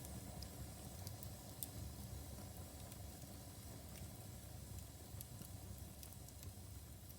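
Wood fire burning in a fireplace: a steady low rumble of flame with scattered small crackles and pops of the burning logs.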